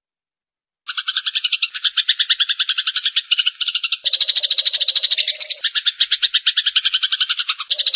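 Fast, evenly pulsed trilling calls from a looped animal-call recording used as a masteran (training song) for long-tailed shrikes. The track cuts in about a second in after a short silent gap. Around the middle, overlapping trills layer over one another, with a lower pulsed call joining for a moment.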